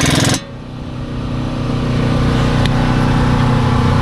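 An impact wrench hammers on a nut and stops abruptly about half a second in. A steady engine hum carries on underneath and grows slowly louder.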